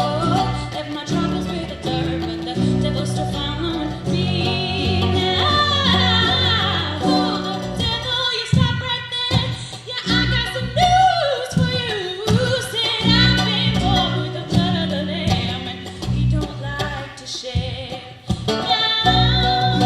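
Live performance of an acoustic folk-bluegrass song: singing with vibrato and harmony voices over steady acoustic string accompaniment.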